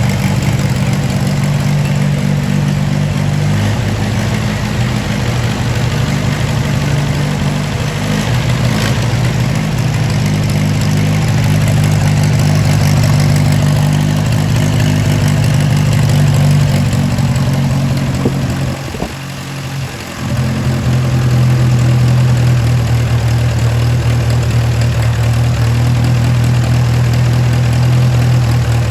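The 1936 Silver King R44 tractor's freshly refreshed Hercules IXA engine idling steadily. About two-thirds of the way through the sound drops for about a second, then comes back the same.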